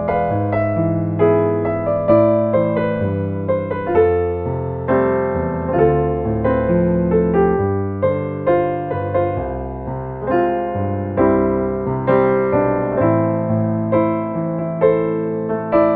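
Solo piano playing a slow ballad: chords in the left hand under a single-note melody, each note struck and decaying.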